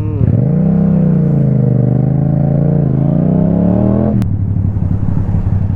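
Yamaha MT-07 motorcycle engine pulling under throttle, its note dipping and then rising steadily for about four seconds. It cuts off sharply with a click about four seconds in, then drops to a lower, uneven rumble.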